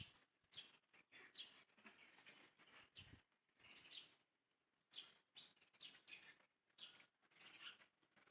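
Faint, high-pitched chirping calls, short and repeated irregularly about twice a second, with a soft low bump about three seconds in.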